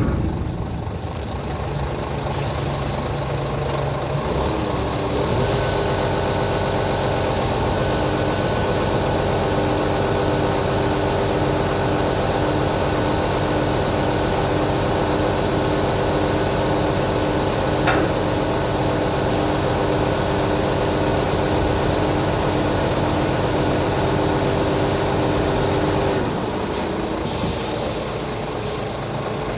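Scania truck's diesel engine running while the Palfinger hook-lift hydraulics work. A steady whine comes in about five seconds in and stops a few seconds before the end, with a single click midway. A brief air hiss comes near the end.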